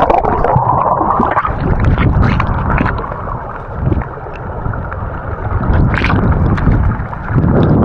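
Fast river rapid water rushing and churning close around the microphone, with scattered knocks and splashes.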